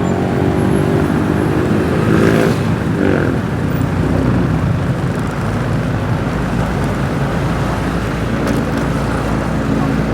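Motorbike engine running steadily while riding, over a continuous haze of street traffic noise; the engine note fades back under the traffic for a few seconds in the middle.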